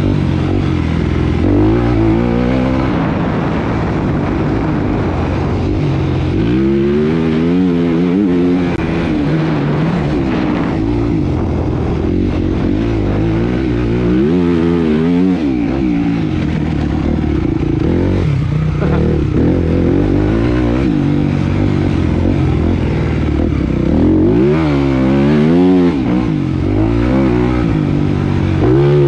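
Motocross bike engine ridden hard around the track, its revs climbing and dropping again and again through gear changes and corners, about every few seconds.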